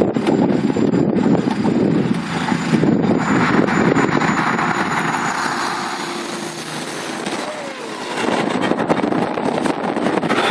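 Heavy truck driving past, a loud steady rush of engine and road noise that dips briefly about seven seconds in and then rises again.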